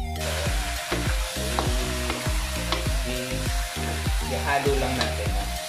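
Raw chicken pieces sizzling as they sear in hot oil in a wok with sautéed garlic and onion, stirred with a wooden spatula that scrapes and knocks against the pan now and then. Background music with a steady beat plays under the sizzle.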